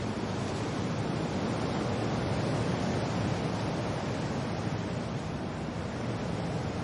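Steady wind and rain: a continuous, even rushing with no separate drops or gusts standing out, swelling slightly a couple of seconds in.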